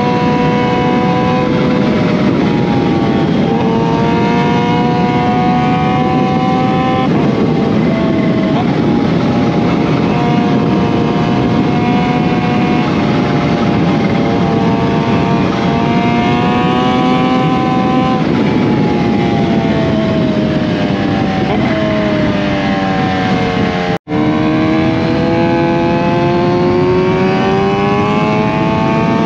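Kawasaki Z H2's supercharged inline-four engine through an SC Project CRT exhaust, heard onboard while riding: the revs climb and drop repeatedly as the bike accelerates through the gears and eases off. The sound cuts out for an instant about 24 seconds in, then the engine pulls again with rising revs.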